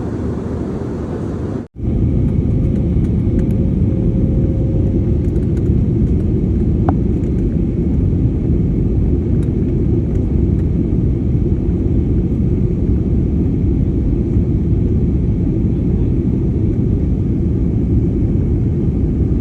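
Steady low rumble of an airliner in flight, heard inside the passenger cabin, with a sudden break about two seconds in where two clips are joined.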